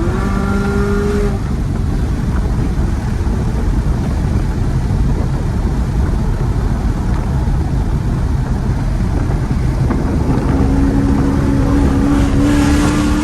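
Supercharged V8 of an 800-horsepower Camaro ZL1 1LE running hard at speed under loud, dense road noise. The engine note climbs in pitch in the first second and holds a steady tone again near the end.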